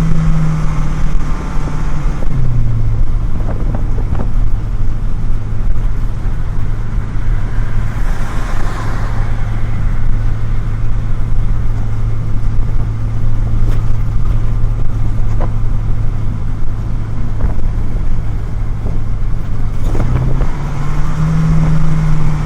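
Truck engine heard from inside the cab while hauling a load of corn on the road, running steadily; its pitch drops about two seconds in and climbs back near the end.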